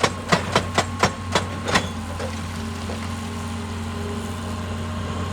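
Excavator-mounted hydraulic rock breaker hammering rock in rapid strikes, about three a second, which stop about two seconds in. The excavator's engine then keeps running steadily.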